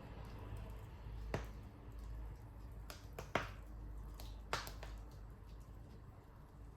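Wood fire crackling in a fireplace: scattered small ticks and three sharper pops, the loudest about halfway through, over a low steady rumble.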